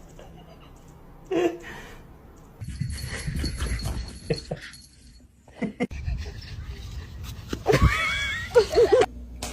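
A dog panting and giving short pitched vocal sounds, mixed with people's voices. The sound changes abruptly a few times, and the loudest, bending pitched calls come near the end.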